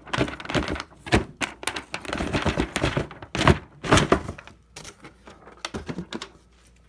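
Cardboard fireworks box being handled and opened: a quick run of knocks, taps and rustling, thinning out to a few clicks after about five seconds.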